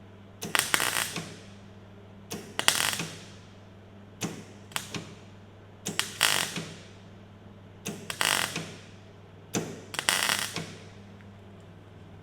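Welder laying tack welds on a sheet-metal patch panel: six short crackling bursts, one about every two seconds, over a steady low hum.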